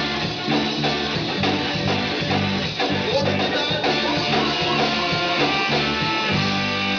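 A rock band playing an instrumental passage: guitars, bass and drum kit with a steady beat.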